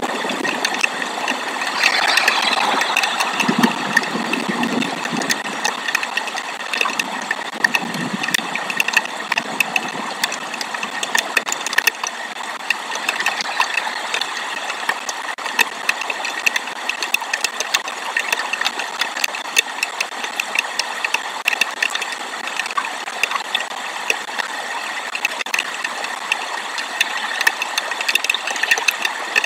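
Heavy rain falling on the nest, with dense, irregular ticks of drops striking close to the microphone over a steady hiss of rain.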